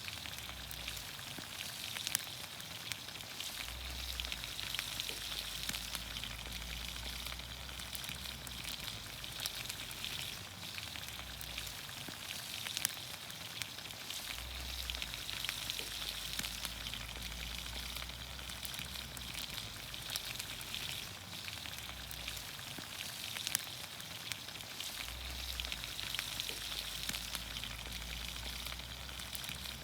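Green beans, onions, carrots and potatoes cooking in olive oil over a campfire: a steady sizzle with many small scattered pops and crackles.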